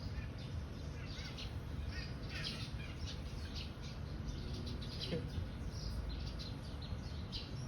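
A small bird chirping: many short, high chirps in quick, uneven succession, over a steady low rumble.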